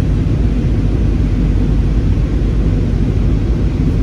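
Steady, low cabin rumble of an Airbus A320 airliner, engine and airflow noise heard from inside the passenger cabin.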